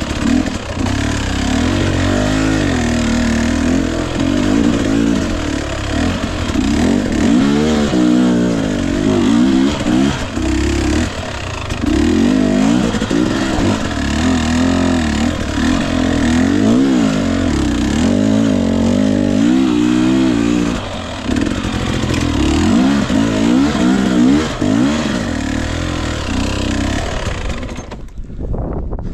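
Husqvarna TE 250i single-cylinder two-stroke dirt bike engine running under load, its pitch rising and falling again and again as the throttle is worked. Near the end the sound drops off.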